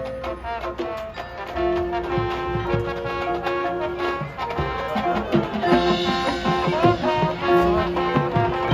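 High school marching band playing: brass holding sustained notes and chords over drums, growing louder about two seconds in.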